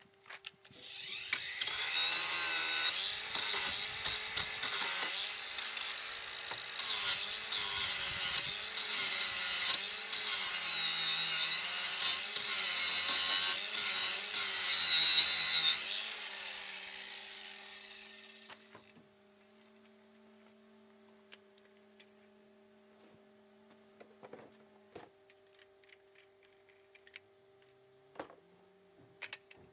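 Electric power saw running and cutting wood, its pitch wavering under load and briefly dropping out several times. After about fifteen seconds it is switched off and winds down over a few seconds, leaving only faint clicks.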